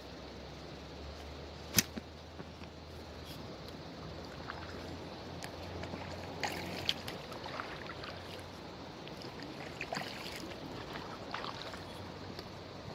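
Kayak paddling on a river: water splashing and trickling off the paddle in small irregular splashes over a steady background of running water. A single sharp knock about two seconds in.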